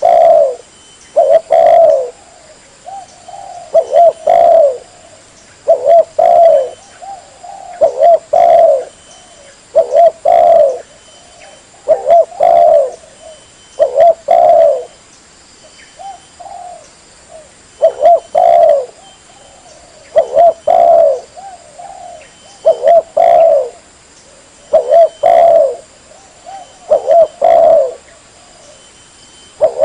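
Spotted dove (tekukur) cooing: a short phrase of a few coos repeated about every two seconds, loud and steady in rhythm. It is a recorded lure call used to draw spotted doves in.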